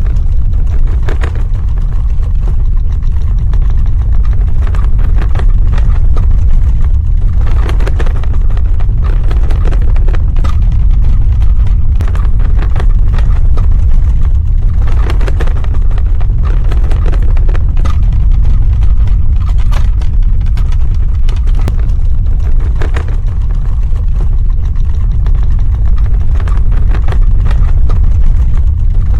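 Earthquake rumble sound effect: a continuous deep rumble with dense crackling and rattling over it, swelling and easing at times without stopping.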